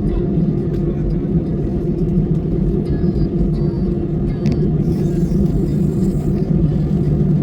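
Steady low engine and travel drone of a vehicle in motion, even in level throughout.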